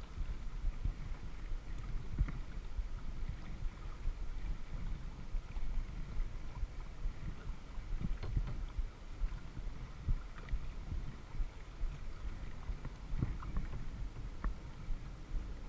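Kayak being paddled: water splashing and lapping against the hull, over a steady low rumble.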